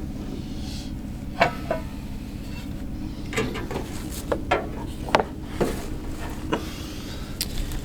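Camp-cooking utensils and dishes being handled: about eight light, scattered clicks and knocks over a steady low hum.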